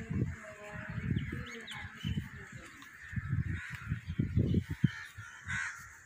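Birds calling and chirping over low, uneven rumbling and bumping noise.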